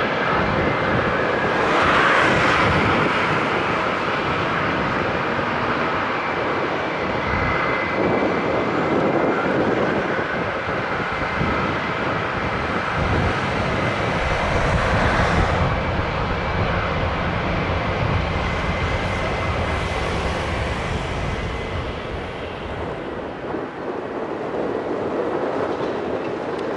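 Jet airliner engines running as a steady roar with a thin whine over it, swelling louder twice.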